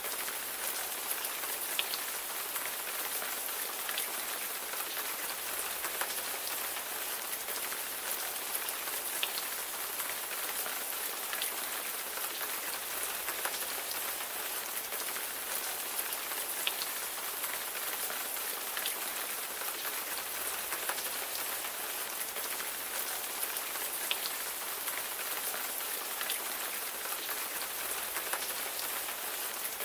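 Steady rain falling, with the hiss of the downpour and scattered individual drop ticks.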